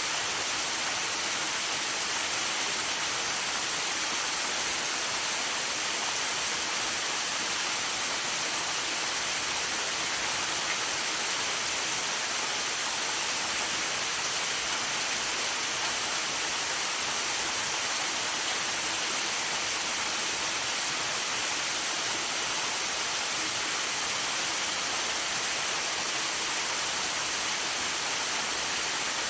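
Waterfall rushing steadily: an even, unbroken hiss that is strongest in the high range.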